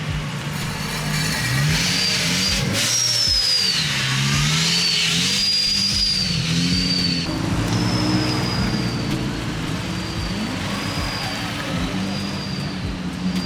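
A car engine revving up and down repeatedly, with a high whine rising and falling above it and a louder, rougher stretch in the first half.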